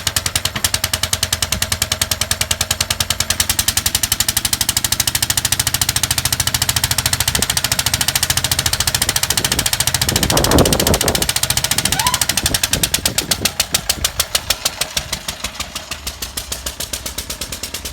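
Lister stationary engine running with a steady, rapid chug of regular beats. About ten seconds in there is a brief louder noise over it, and after about fourteen seconds the beats come slower and quieter.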